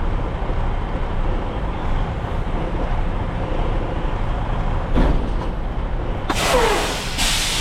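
Semi truck engine idling with a steady low rumble, heard from the cab. There is a knock about five seconds in, then loud bursts of hissing near the end.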